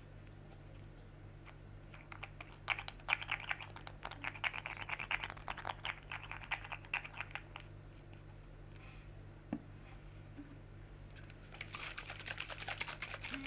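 Rapid, light clicking taps in a long run that starts about two seconds in, stops for a few seconds, then starts again near the end.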